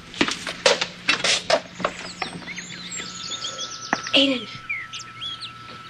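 Small birds chirping repeatedly. Before them come a quick run of knocks or clicks, and about four seconds in a short, louder sound falls in pitch.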